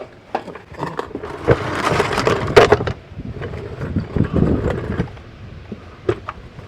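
Irregular scraping and knocking of hand work on the truck, with two rougher, louder stretches of scraping in the middle.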